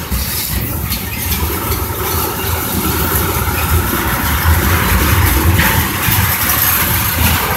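Freight train of tank cars rolling past on the main line: a steady low rumble with an even hiss over it.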